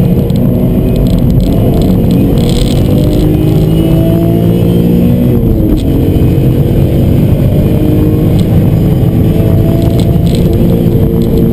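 BMW E46 M3's 3.2-litre straight-six under hard acceleration, heard from inside the cabin: its pitch climbs steadily, drops at an upshift about five and a half seconds in, then climbs again.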